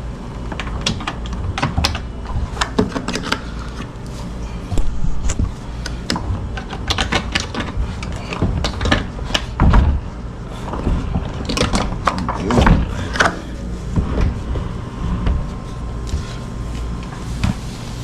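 Irregular clicks, taps and clunks of hands and tools working on a dishwasher while it is being installed.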